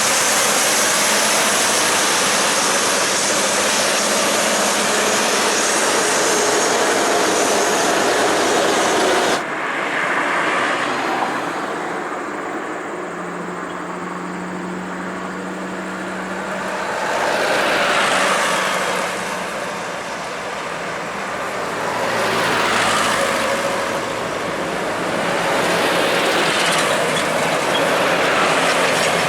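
Heavy trucks driving by on a road with engine and tyre noise. After a sudden cut about nine seconds in, a low engine drone holds briefly, then three vehicles pass one after another, each swelling and fading.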